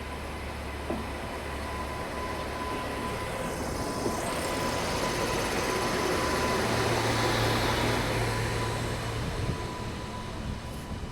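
Superfast express train passing through a station at speed: a steady rumble and rattle of wheels on the rails that grows louder to a peak about seven to eight seconds in, then fades.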